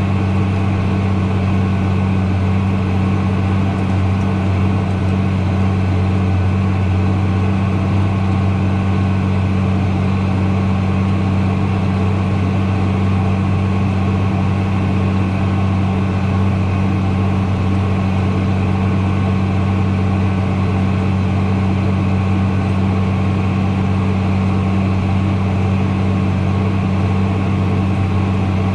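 Engine idling with an even, deep hum that holds completely steady, without revving or change.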